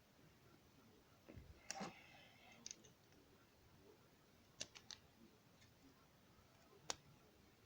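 Scattered light clicks and small rattles of plastic Lego pieces being handled and pressed together, a few at a time with pauses between them, over a quiet room.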